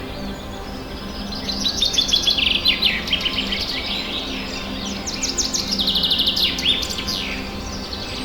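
Songbirds singing in rapid chattering trills that fall in pitch, loudest in two phrases, one about two seconds in and another near the middle to end.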